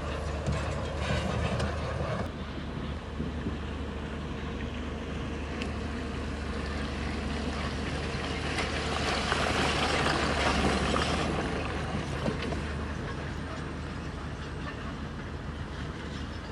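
Crawler bulldozer's diesel engine running steadily under load, its steel tracks clanking, with a louder grinding surge from about 8 to 11 seconds in.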